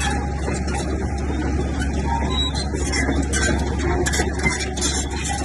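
Bulldozer diesel engine running steadily with a constant low hum, over irregular clanking and scraping from the tracks and stones.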